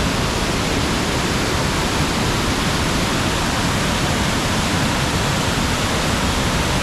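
A river in spate, running high and brown with rainy-season runoff, rushing and churning. A loud, steady roar of water with no let-up.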